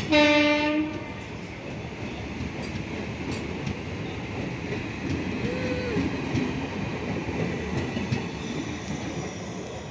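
A short, loud horn blast at the very start, then the steady rumble and clatter of Indian Railways passenger coaches rolling past close by, with a brief squeal about halfway through.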